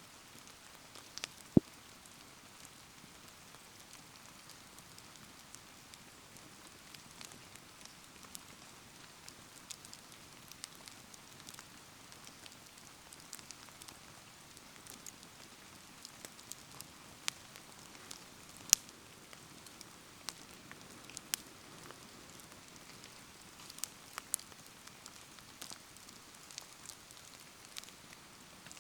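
A wood bonfire crackling with scattered sharp pops over a steady hiss of rain falling. The loudest pops come about a second and a half in and again about two-thirds of the way through.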